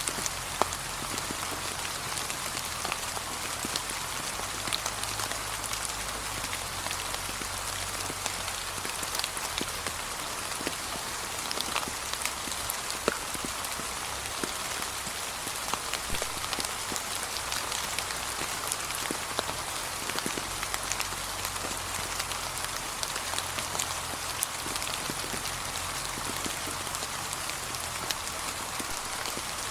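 Steady gentle rain pattering on a path of fallen autumn leaves, an even hiss with many scattered drop ticks.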